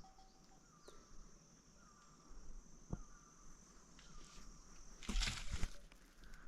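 Insects trilling steadily, with a short dropping call repeated about once a second. There is a single knock about three seconds in, and a louder burst of rustling about five seconds in.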